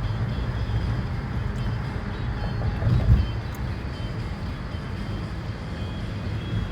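Car noise heard from inside the cabin: a steady low rumble of engine and road, with a brief louder swell about three seconds in.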